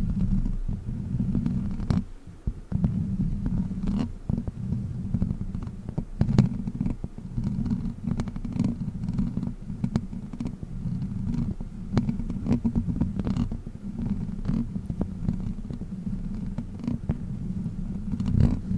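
Witch-finger prop rubbed and tapped directly on the microphone: a dense, close low rumble with many scattered sharp clicks and scratches.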